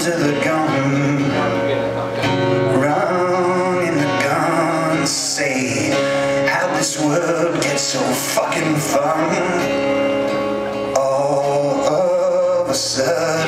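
Live music: guitar playing, with a man's voice singing over it.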